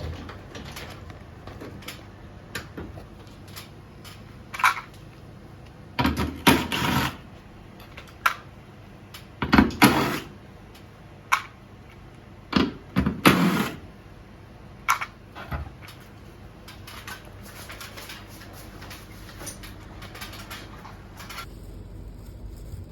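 Scattered clicks and knocks, with three louder bursts of clatter about six, nine and a half, and thirteen seconds in.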